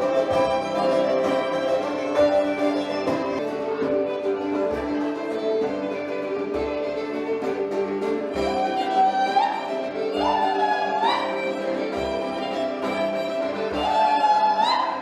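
Live early-music ensemble playing dance music, a fiddle carrying the tune over held drone notes, with several quick upward slides in the second half and soft low drum beats.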